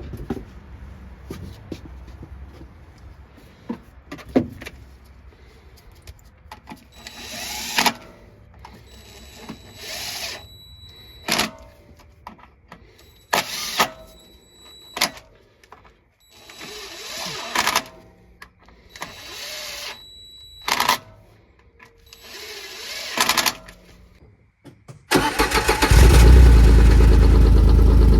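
A series of short bursts of hand-tool work at intervals of a second or two, then about 25 seconds in a Kawasaki Mule Pro's three-cylinder gasoline engine starts suddenly and runs loudly. The engine is being run to check it after new spark plugs and plug wires were fitted.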